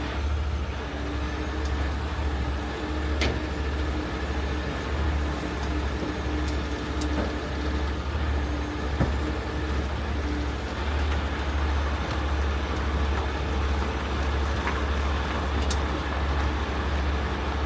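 Heavy-duty rotator tow truck's diesel engine running steadily under load, driving the boom hydraulics as it takes up the weight of the lift. A couple of sharp clicks come about three and nine seconds in.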